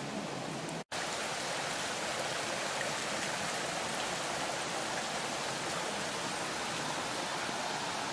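Running water, a steady rushing sound like a stream or small channel flowing close by. It cuts out for an instant about a second in.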